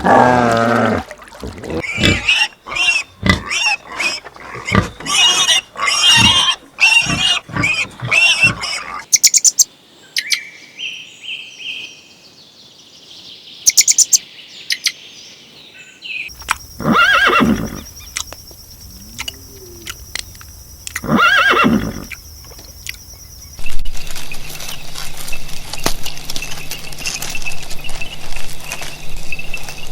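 Horses neighing in several short clips: a quick run of repeated calls, a quieter stretch, then two long calls about four seconds apart.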